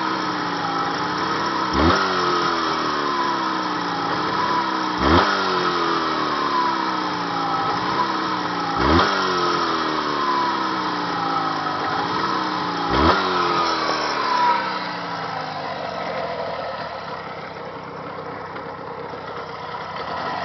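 Jawa 638 two-stroke twin engine being run in. The throttle is blipped four times, each time the revs jump and then wind slowly back down. From about two-thirds of the way through it settles to a quieter, steady idle.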